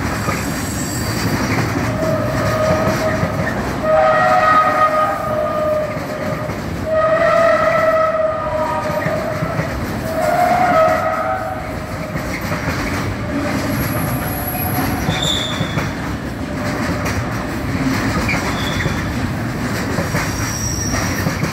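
Freight train of pocket wagons carrying semitrailers rolling past, a steady rumble with clickety-clack of wheels over rail joints. Wheels squeal on and off, in short high-pitched squeals a second or two long, most often in the first half, typical of flanges rubbing on curved track.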